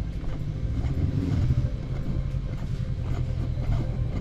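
Motorbike engine running steadily at low speed, a rough, even low hum.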